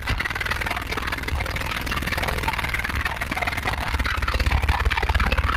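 Car subwoofers playing very loud low bass, with a noisy buzzing haze over it. The bass grows a little louder over the last second or two.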